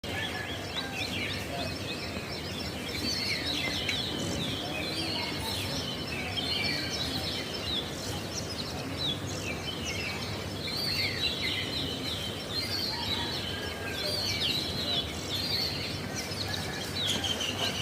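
A chorus of many small birds chirping and singing at once: short, high chirps and whistles overlapping throughout, over a steady low background noise.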